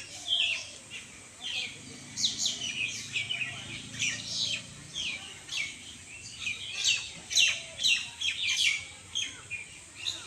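Small birds chirping busily: many short, quick downward-sliding chirps, often overlapping, as from several birds calling at once.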